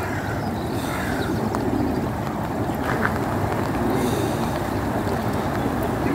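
Steady wind noise buffeting the microphone, in heavy rain.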